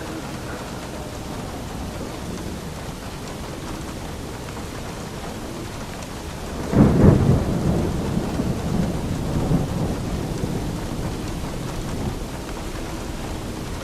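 Steady rain with a crack of thunder about halfway through that rumbles and fades away over several seconds.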